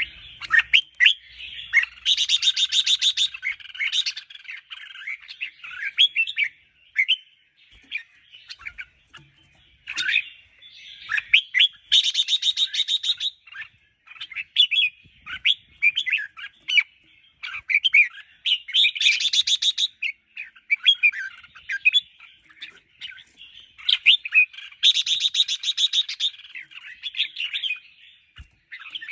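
Red-whiskered bulbuls singing: quick, bright whistled phrases with no pause, broken four times by a fast buzzy rattle about a second or so long.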